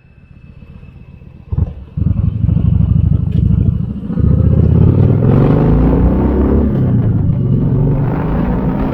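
Kawasaki Vulcan 1700 V-twin motorcycle engine turning over quietly, then a sharp knock about a second and a half in. From about two seconds in it runs loud, pulling away and accelerating with the pitch rising, then dipping once.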